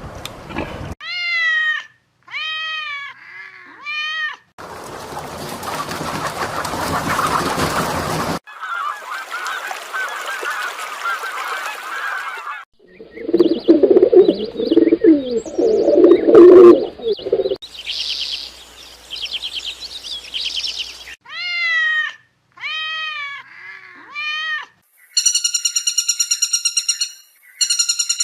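A sequence of different animal calls, with groups of rising-and-falling honking calls near the start and again after about 21 s, noisy stretches between them, and a run of rapid buzzing calls near the end.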